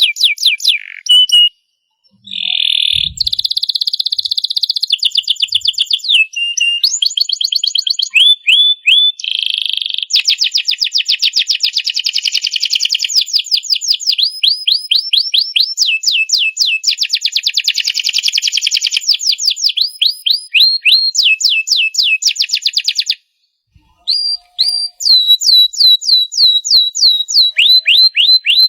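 Domestic canary singing a long, unbroken song of fast high trills and rapid repeated-note rolls, changing from one trill to the next every second or two. The song stops briefly twice, about a second and a half in and about 23 seconds in.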